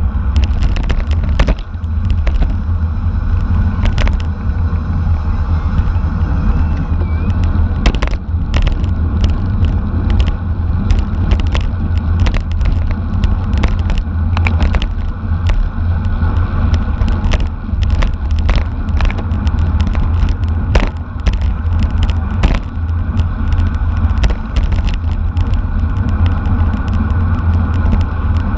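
Heavy wind rumble on a camera microphone riding along in a bicycle race, with frequent sharp clicks and knocks at irregular intervals.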